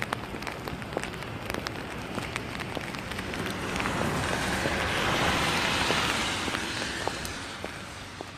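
Rain falling, with many sharp drop ticks throughout, and a vehicle passing on the wet road about four to seven seconds in, its tyre hiss swelling and fading away.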